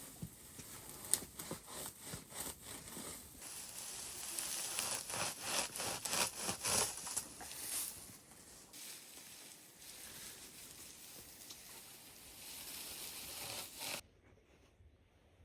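Repeated rough scraping and rubbing strokes, busiest in the middle, cutting off suddenly near the end.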